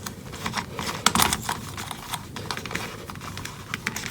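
Small tools and electronic parts being handled on a workbench: irregular light clicks and taps, with a few louder ones about a second in.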